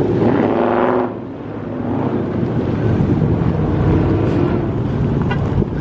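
A V8 muscle car's exhaust running loud. It revs up in the first second, drops back about a second in, then builds again into a steady rumble.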